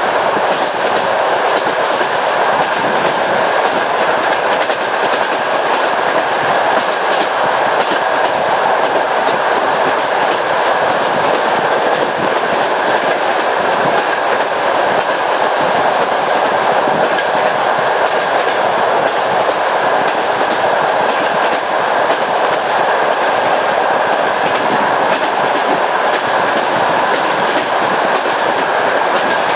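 A train running steadily, heard from aboard: a continuous rushing rumble of the wheels on the rails with a faint clickety-clack of the wheels over rail joints.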